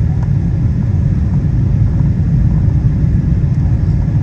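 Steady, loud low rumble of engine and airflow noise heard inside the cabin of a Boeing 777-200ER on final approach.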